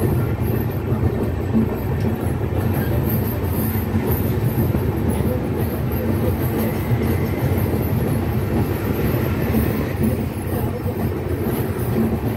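Passenger train running steadily at speed, heard from aboard at the side of the coach: a constant rumble of wheels on the track.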